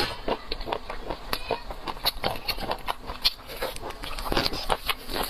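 Close-miked chewing and mouth sounds of someone eating seafood: a quick, irregular run of wet clicks and smacks, several a second.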